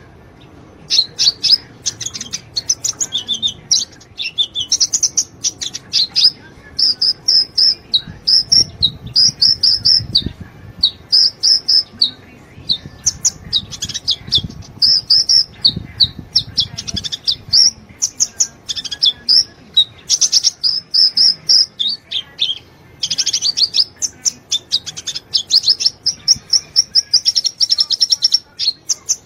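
A sunbird singing energetically: rapid, high-pitched chirping trills in short repeated phrases, with barely a pause.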